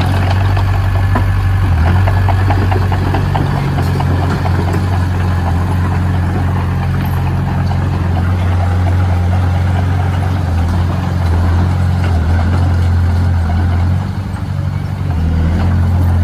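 Heavy construction machine's engine running steadily with a deep, even drone. It eases off briefly near the end, then picks up again.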